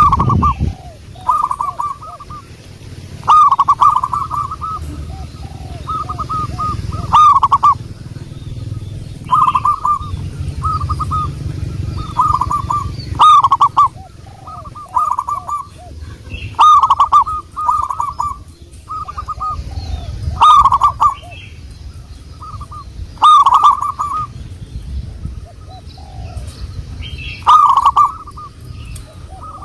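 Zebra doves cooing: short rippling phrases of quick staccato coos, one every second or two, over a low background rumble.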